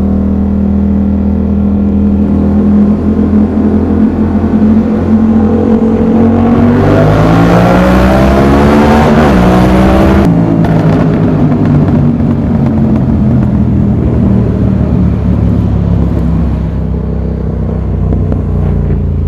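Yamaha MT-07's CP2 parallel-twin engine through an aftermarket exhaust, running steadily, then accelerating with a rising pitch for about four seconds before the revs drop suddenly, as at a gear change or throttle closing, and it pulls on at lower revs.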